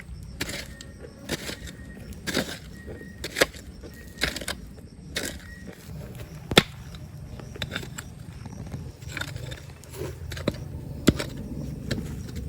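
Irregular sharp clicks and knocks of stones and gravel being dug and shifted, about one a second, over a steady low rumble.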